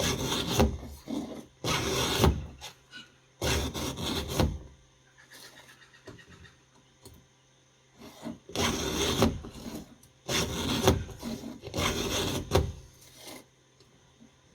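Round chainsaw file in a filing guide rasping across the cutters of a Stihl MS361 chain: six push strokes of about a second each, three together, a pause of about three seconds, then three more, the usual three strokes per tooth.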